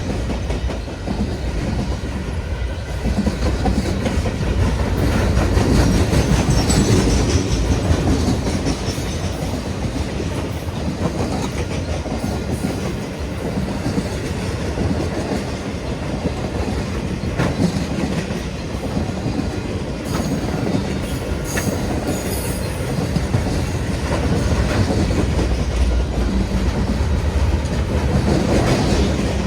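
Steady loud rumble of a moving vehicle, heaviest in the low range, with scattered faint clicks.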